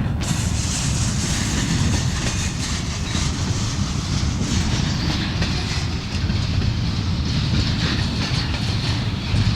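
Long freight train rolling past, its wheels running on the rails in a steady rumble.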